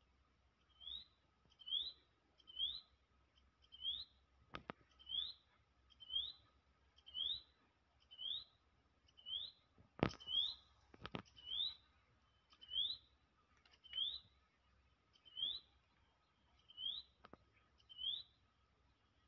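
A bird calling a short rising chirp, repeated steadily about once a second, with a few sharp clicks in between.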